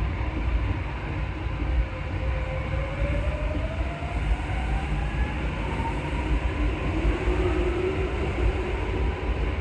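Rubber-tyred MP14 Paris Métro train running, heard from inside the car: a steady rumble with a motor whine that rises in pitch from about three seconds in as the train picks up speed.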